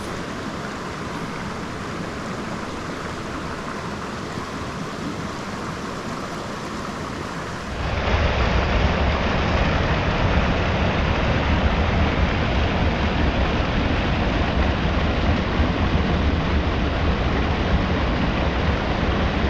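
Steady rush of a small moorland stream flowing over stones. About eight seconds in, it cuts suddenly to a louder, deeper rush of water.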